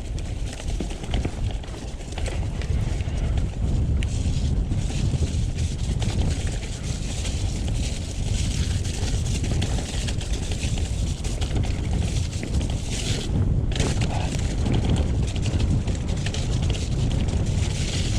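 Mountain bike being ridden downhill on a wet, muddy trail: wind rushing over the camera microphone and tyres rolling through mud, with steady small clicks and knocks from the bike rattling over the rough ground.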